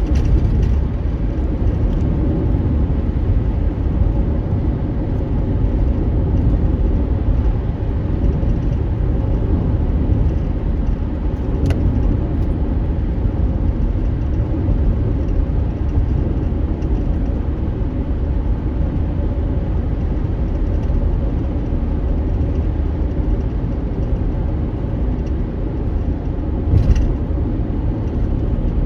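Steady low rumble of a car driving, its engine and tyres running on the road. There is a short sharp click about twelve seconds in and another near the end.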